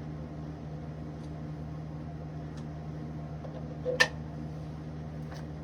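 Steady low mechanical hum, with one sharp knock about four seconds in.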